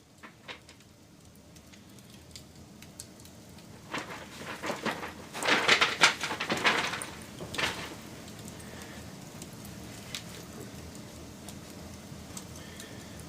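Wood fire crackling: a few sharp pops, then a dense burst of loud crackling and popping about four to eight seconds in, settling back to a steady hiss with occasional snaps.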